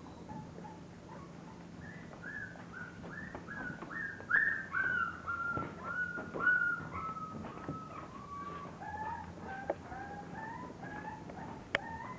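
English bulldog puppies whimpering: a long run of short high squeaks, about two or three a second, each sliding down in pitch, with a second, lower voice joining near the end. A single sharp click near the end.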